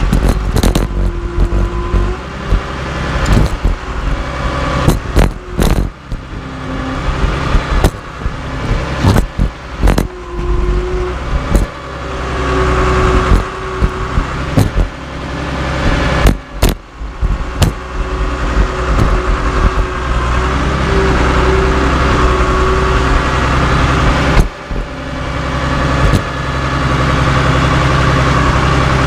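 Caterpillar D3C LGP crawler dozer's diesel engine running steadily, with many sharp metallic bangs and clanks scattered through it.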